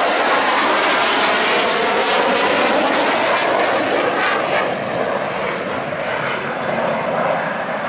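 Jet engine noise of a CF-18 Hornet (twin General Electric F404 turbofans) making a low pass over the field: a loud, steady jet sound that fades away from about halfway through.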